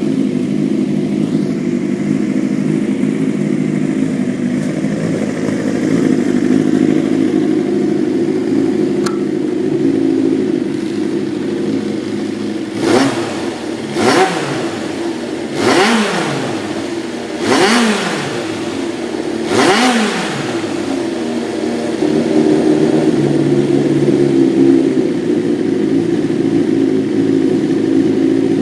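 Honda CBX400F's air-cooled inline-four idling steadily. About halfway through come five quick throttle blips, about two seconds apart, each rising and dropping straight back to idle. The seller describes the engine as revving smoothly with no abnormal noise.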